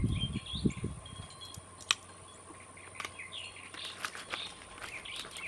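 Small songbirds chirping in short, quickly bending calls, in a cluster at the start and another from about three and a half seconds in. A couple of sharp clicks fall between them, and there are a few low thumps at the very start.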